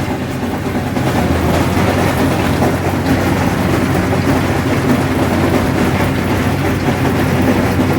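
Allis-Chalmers 7000 tractor's diesel engine running steadily under load while mowing hay with a sickle mower. It is very loud and unchanging.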